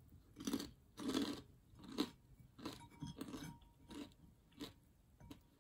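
A person chewing a mouthful of crispy breaded fried chicken and rice, with irregular crunching bites about once or twice a second, the loudest in the first second and a half.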